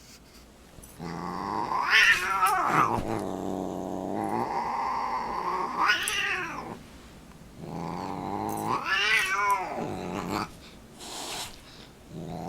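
Domestic cat yowling: a low, drawn-out moaning growl that swells three times into long wails rising and falling in pitch.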